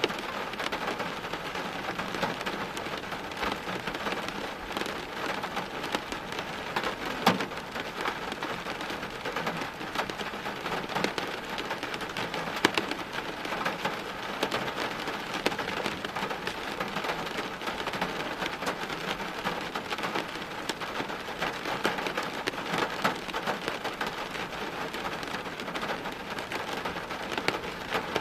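Steady rain falling on hard surfaces, thick with small drip and splash clicks. A couple of sharper drop hits stand out, about seven and twelve and a half seconds in.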